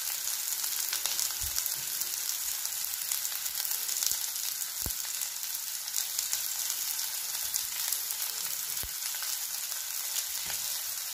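Chopped onions, green chillies and curry leaves sizzling steadily in hot oil in a frying pan, with a few faint ticks. The onions are being fried until they turn brown.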